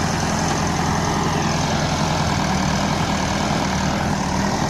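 Diesel tractor engines running steadily under load, pulling a trolley stuck in sand.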